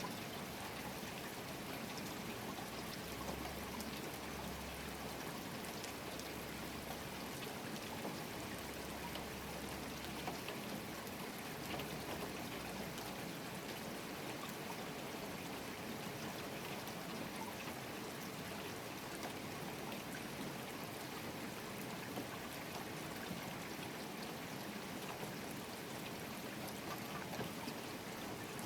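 Steady rain falling, with drops pattering and water running or trickling, likely runoff from a gutter or downspout. A faint low hum comes and goes in the first half.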